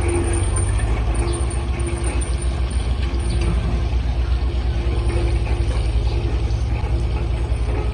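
Heavy diesel engine running steadily, a loud low rumble with a fast pulse.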